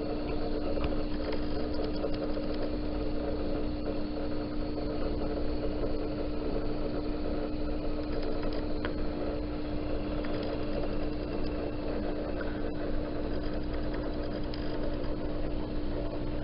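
Steady mechanical hum from a small motor, with one constant tone that never changes.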